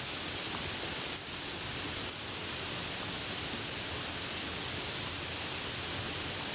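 Steady rain falling as an even, unbroken hiss, with a slight dip in level about a second in. No thunder is heard.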